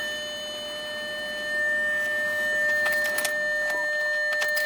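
B7 Audi A4's door-open warning sounding as a steady, unbroken electronic tone. A few light clicks come about three seconds in, and a sharper click near the end.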